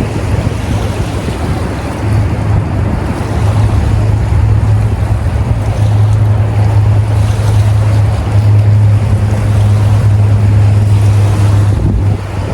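Wind buffeting the microphone, a loud, rough rumble with a steady low hum under it that grows louder about two seconds in.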